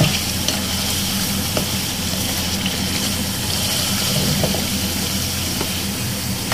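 Raw chicken pieces frying in hot oil in a karahi, a steady sizzle while they are stirred with a plastic slotted spatula, with a few light scrapes of the spatula against the pan.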